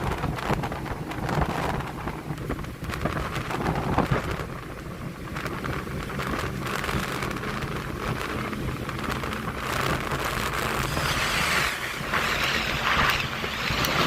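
Boat under way at sea: a steady low engine drone under heavy wind noise buffeting the microphone and rushing water, at a strong, even level.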